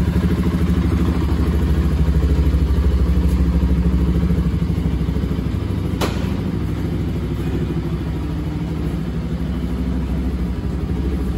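Bajaj Pulsar RS200's single-cylinder engine idling steadily with an even pulse, with one sharp click about six seconds in.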